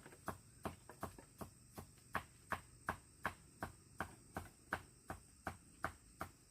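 Sharp knocks in a steady, even rhythm, a little under three a second.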